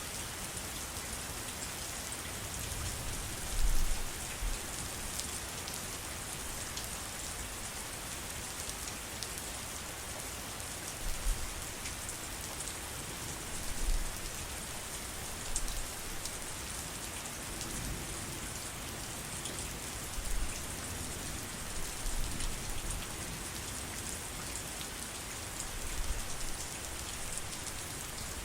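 Steady heavy rain, an even hiss of drops, with short low thumps every few seconds.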